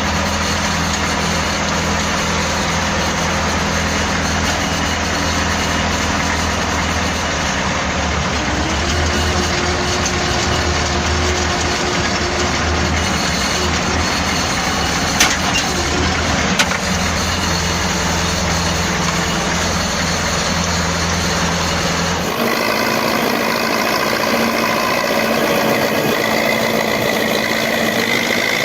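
Diesel engine of a T-74 crawler tractor running steadily under plowing work. Two short sharp clicks come about halfway through. The sound changes abruptly about three-quarters of the way in, losing its deep low end and becoming higher and brighter.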